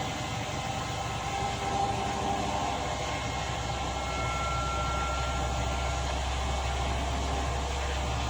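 Washing machine running with a steady mechanical rumble. A low hum comes in about three seconds in, and a faint thin whine sounds for a few seconds midway.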